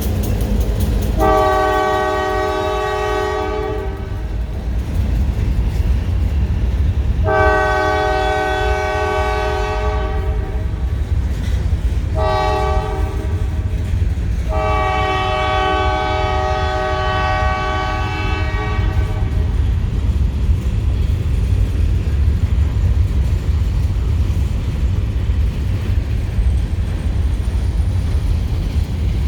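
Great Lakes Central Railroad diesel locomotive sounding its multi-tone horn in the grade-crossing pattern: long, long, short, long, the last blast ending about two-thirds of the way in. Under the horn there is a steady low rumble of the train rolling past.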